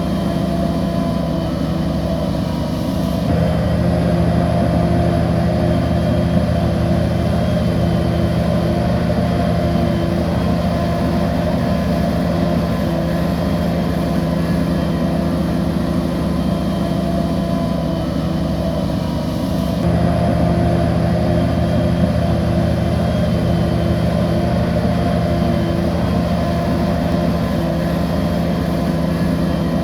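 Bulldozer's diesel engine running steadily under work, growing louder about three seconds in and again about two-thirds of the way through.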